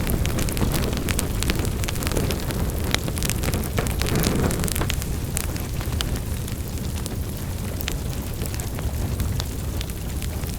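Wood fire in a fireplace burning steadily, a low rumbling bed of flame noise with frequent sharp, irregular crackles and pops.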